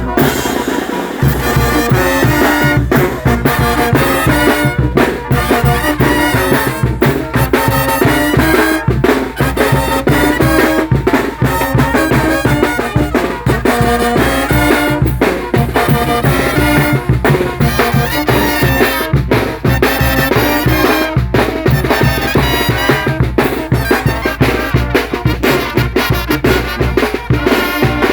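A Mexican brass band (banda de viento) playing a lively tune: a brass melody over a steady drum beat.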